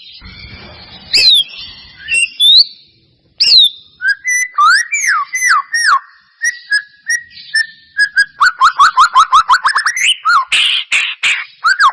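White-rumped shama (murai batu) singing: loud, varied whistles and slurred notes, running into a fast string of repeated notes, about eight to ten a second, over the last few seconds.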